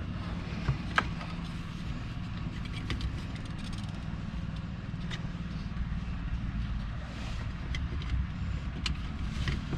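Faint, sharp clicks and taps of a tiny indicator bulb being handled and pushed into its plastic socket, the sharpest about a second in, over a steady low hum.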